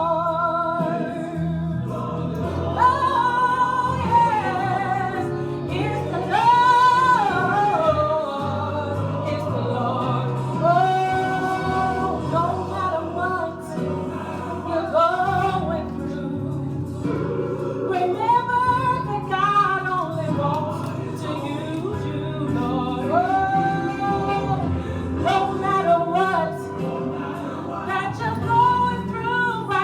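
Gospel song: a solo singer holds long, wavering notes over steady instrumental accompaniment.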